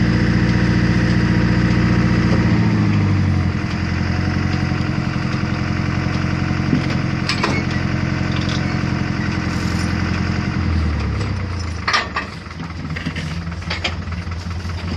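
An engine running steadily, dropping in speed about three seconds in and changing again around eleven seconds, with a few sharp clanks over it.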